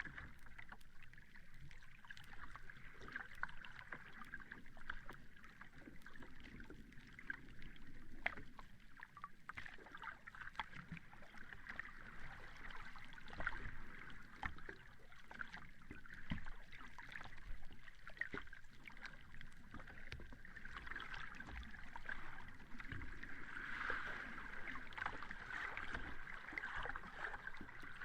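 Sea surf washing onto a beach: a steady hiss of breaking and receding water, peppered with small crackles, swelling louder as a wave comes in near the end.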